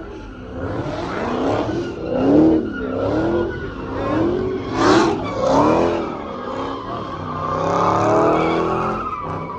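Car tires squealing in wavering, repeated squeals over a running, revving engine, as in donuts or a burnout.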